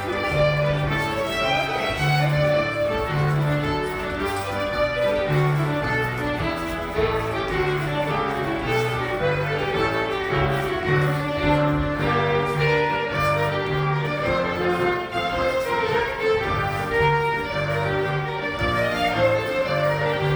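Scottish country dance music led by fiddle: a brisk melody of short notes over a steady, pulsing bass line.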